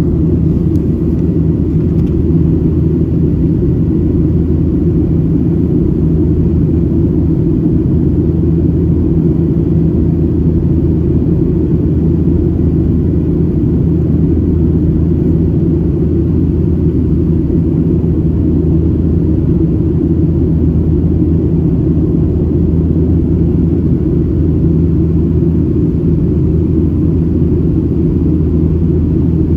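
Steady low rumble of engine and airflow noise inside the cabin of a Boeing 737-700 in flight, from its CFM56-7B turbofans.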